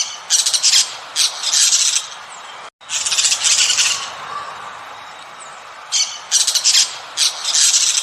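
A bird giving harsh, squawking calls in repeated bursts, each up to about a second long, in two groups with a pause between them. A steady background hiss runs underneath.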